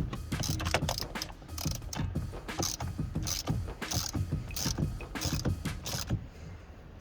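Ratchet wrench fitted with an M12 bit, worked back and forth in short strokes to undo the steering wheel centre bolt. It gives a burst of ratchet clicks about twice a second, stopping shortly before the end.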